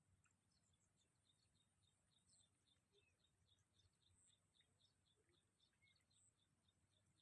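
Near silence, with very faint high chirps repeating evenly, about three a second.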